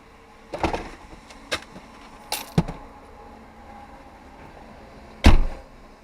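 A handful of sharp knocks and clicks over a quiet background: several in the first three seconds, then the loudest single knock about five seconds in.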